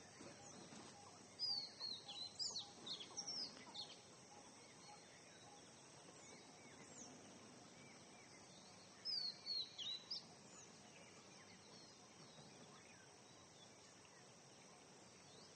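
Small birds chirping in two short bursts of quick high chirps, one about a second and a half in and another around nine seconds in, over a faint steady hiss.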